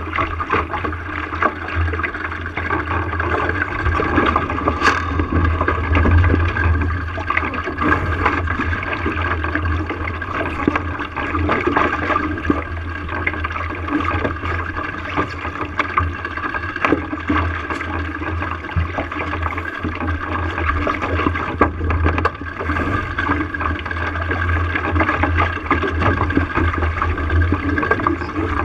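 Water rushing and splashing along the hull of a small sailing boat under way, with a steady low rumble and irregular small slaps and knocks throughout.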